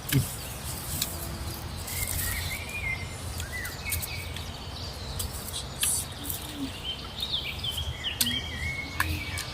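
Birds chirping with short rising and falling calls, over a low steady rumble of outdoor background noise, with scattered sharp clicks.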